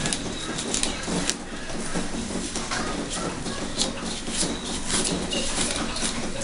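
Fingers working through wet, shampoo-lathered hair: continuous rubbing and squishing, full of small crackles.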